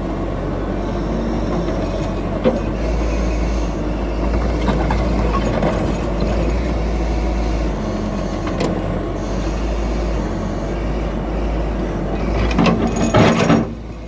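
Heavy diesel earthmoving machinery running steadily with a low rumble and a few light metallic knocks, then a short louder burst of hissing, clanking noise near the end.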